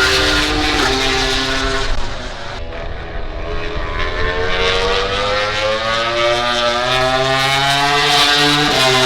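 MotoGP racing motorcycle engine at high revs, with quick pitch steps through the gears in the first two seconds. After a brief dip it makes one long rising run as the bike accelerates, and the pitch drops sharply at an upshift near the end.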